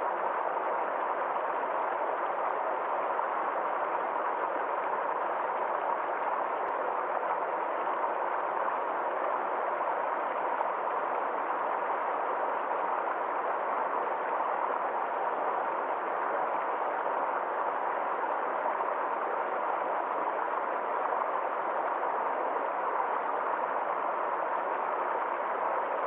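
Small forest stream flowing over rocks: a steady, even rush of water that does not change.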